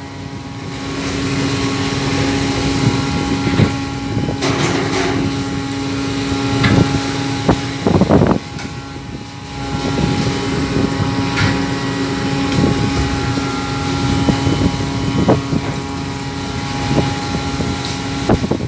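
Fishing boat's engine running with a steady drone, under wind noise on the microphone, with scattered knocks and a few louder rushes about four and eight seconds in.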